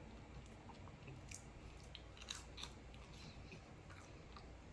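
Faint chewing of food close to the microphone, with a few soft wet clicks and crunches spaced through it.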